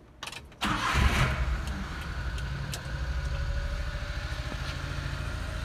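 A 1992 Suzuki Carry mini truck's small three-cylinder engine starting: it catches quickly with a burst of sound less than a second in, then settles into a steady idle.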